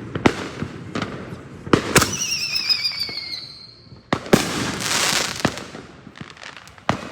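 Fireworks going off: several sharp bangs, some followed by crackling. About two seconds in, a wavering whistle lasts just over a second.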